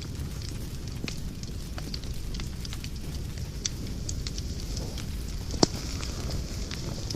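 Wood fire burning in a fireplace, with a steady low rumble and scattered crackles and pops, one sharper crack about five and a half seconds in.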